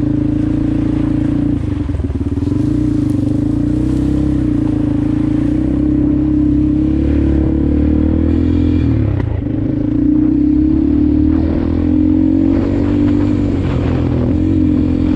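Motorcycle engine running at steady revs while riding, with brief dips about two seconds in and again around nine seconds before it picks back up.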